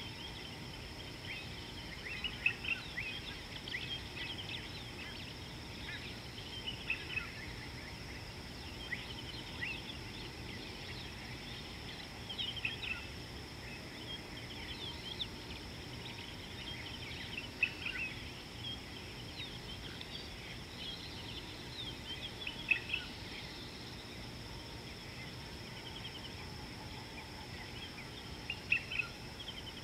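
Wild birds chirping: many short, quick calls scattered throughout, over a steady high tone and a low, even background hiss.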